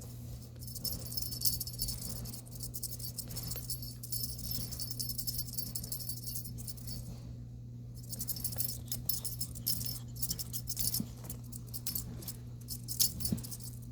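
Small bells on a cat toy jingling in irregular bursts as it is shaken and batted, with a short pause about seven seconds in. A steady low hum runs underneath.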